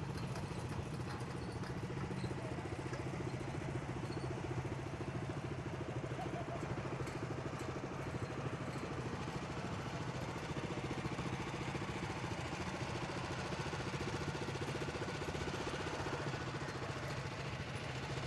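Vintage tractor engine running steadily, with an even, rapid firing beat that holds constant throughout.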